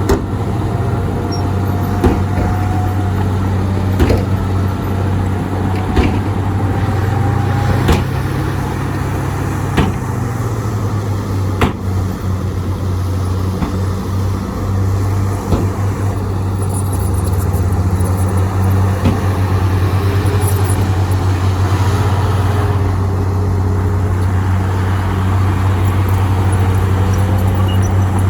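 Heavy diesel earthmoving machinery running steadily with a deep, constant engine hum, with sharp knocks about every two seconds in the first half.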